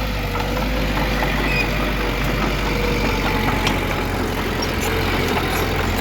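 Heavy diesel earthmoving machine's engine running steadily, with a faint steady whine above the low engine hum.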